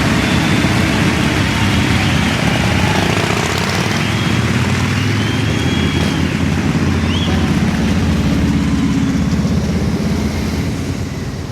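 Motorcycle engines running in a steady low rumble, which begins to fade out near the end.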